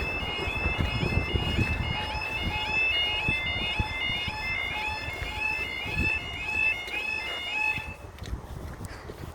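Level crossing warning alarm sounding a rapidly alternating two-tone electronic warble over low rumbling noise. The alarm cuts off about eight seconds in.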